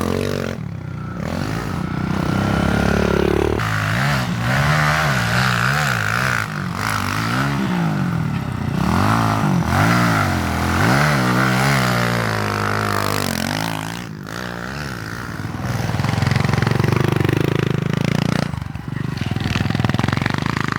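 Pit bike engine revving up and down over and over as it is ridden along the trail, its revs sagging low for a couple of seconds near the end.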